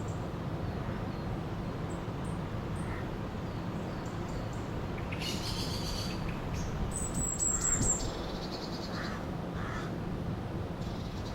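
River water rushing steadily, with birds calling over it: a harsh, rapidly pulsed call about five seconds in, then a high thin whistle about seven seconds in and a few fainter calls after.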